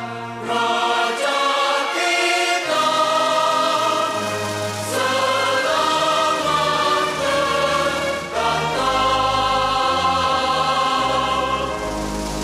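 A choir singing a slow anthem-like piece over instrumental accompaniment, held chords moving over a changing bass line.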